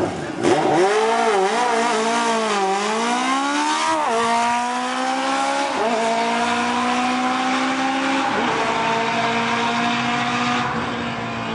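Hillclimb race car launching from the start line and accelerating away, its engine pitch wavering through the first few seconds and then climbing steadily through three upshifts, about four, six and eight seconds in. The engine grows a little fainter near the end as the car pulls away.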